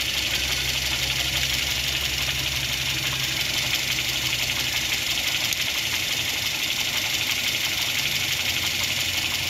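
Fuel-injected car petrol engine idling steadily, heard close up in the open engine bay, with a steady hiss over the low hum.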